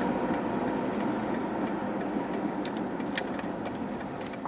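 Car running slowly with a steady road and engine rumble inside the cabin that eases off gradually as it pulls in, with a few scattered light clicks.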